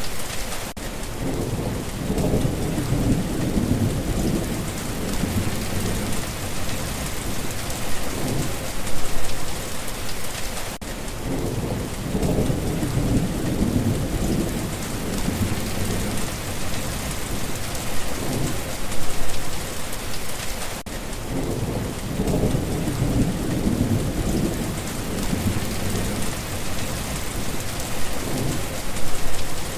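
Steady rain falling, with low thunder rumbling again and again, the rumbles coming about every ten seconds.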